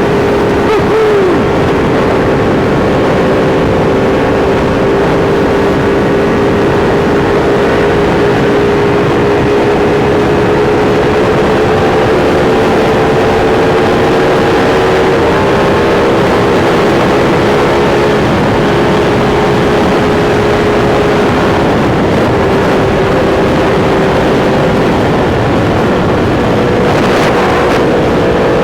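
Sport motorcycle engine running at a steady highway cruise under heavy wind rush, its pitch holding almost level and creeping slowly higher.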